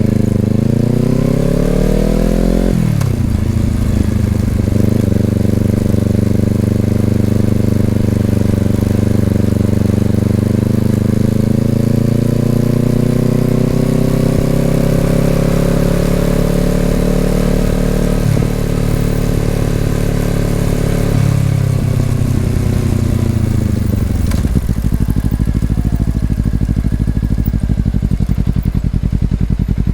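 2020 Honda CBR250RR's parallel-twin engine through an Over Racing aftermarket exhaust, under way: revs climb then drop sharply at a gear change about three seconds in, hold and slowly rise while cruising, with a quick dip at another shift, then fall away as the bike slows and settle into a steady idle from about 25 seconds on.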